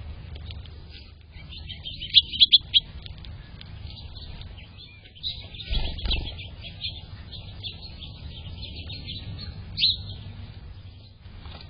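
Small songbirds chirping and twittering, with a burst of loud sharp chirps about two seconds in and a single loud chirp near the end. A dull low thump sounds about halfway through.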